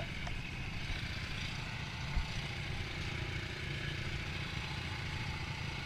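Dirt bike engine idling steadily at low volume, with a single short thump about two seconds in.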